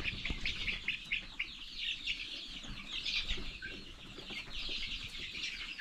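A flock of young chickens peeping continuously, many short falling chirps overlapping one another.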